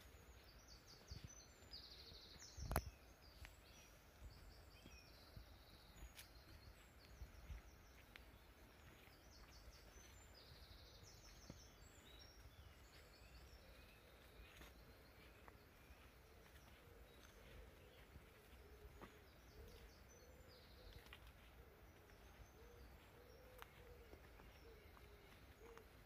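Quiet woodland ambience: a small bird calling in short, rapid repeated high-pitched bursts through the first ten seconds or so, with a single sharp knock about three seconds in and scattered light ticks. In the second half a faint, low, wavering call comes and goes.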